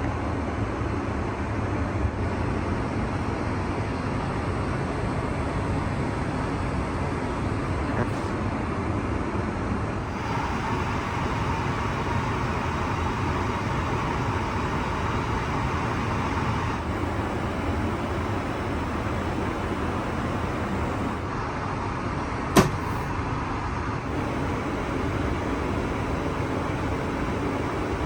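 Steady cabin noise of an Airbus A380 airliner, a constant rumble and rush of air with no speech, heard from inside the cabin. A single sharp click about 22 seconds in.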